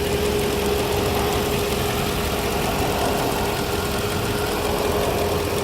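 Mercedes E55 AMG's 5.4-litre V8 idling steadily with the hood open, a steady whine running over the engine note.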